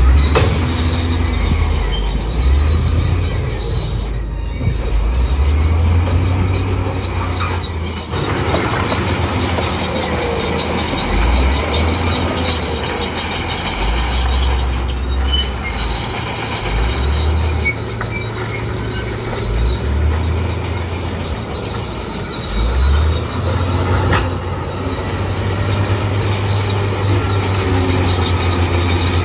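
Crawler bulldozer working: its diesel engine running and changing load in surges, with the steel tracks squealing and clanking.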